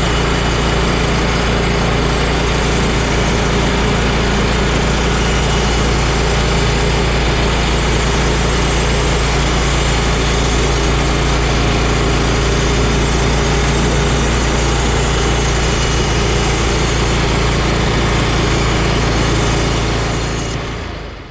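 Small gasoline engine of a portable sawmill running steadily under throttle, then cutting off shortly before the end.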